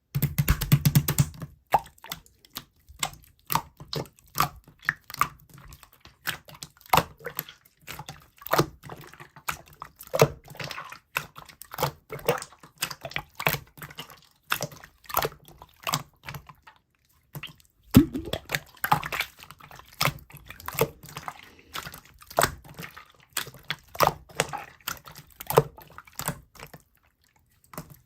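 Slime being squeezed and played with by hand, making an irregular run of sharp wet clicks and pops.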